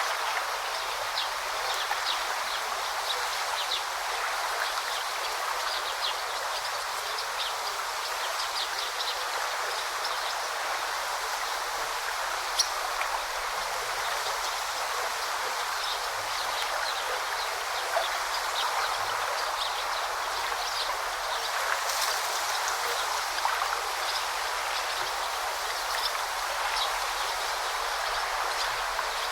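A forest stream flowing steadily, with many short, high bird chirps scattered over the water sound.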